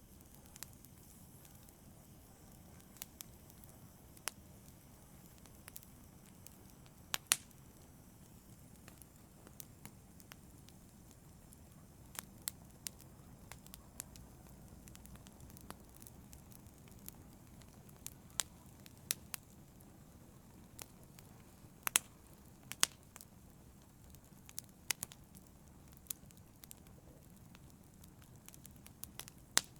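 Wood fire crackling in a fireplace: irregular sharp pops and snaps, a few louder ones, over a faint low rumble of the flames.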